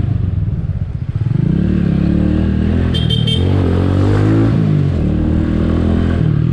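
Skygo Earl 150's single-cylinder CG150 engine, fitted with a 28mm carburetor and an open exhaust, running on reserve fuel as the motorcycle is ridden, its pitch rising and falling with the throttle. A short high chirp sounds about three seconds in.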